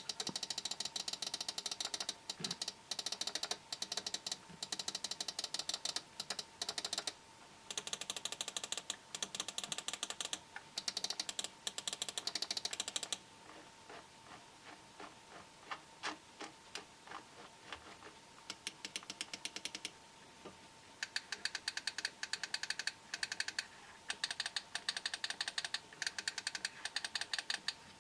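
SVEN RX-G800 gaming mouse buttons being clicked in rapid runs of many clicks a second, with a stretch of slower, quieter single clicks in the middle. A faint steady whine runs underneath.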